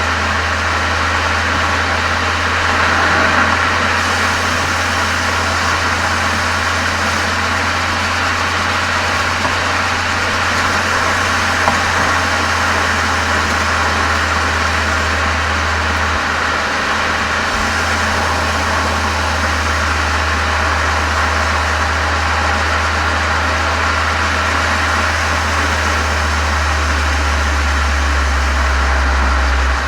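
Exhaust of a VW Golf 7 GTI's turbocharged 2.0-litre four-cylinder engine, fitted with an aftermarket Cox muffler and chamber, running at a steady engine speed: an even, deep drone that holds without revving up or down.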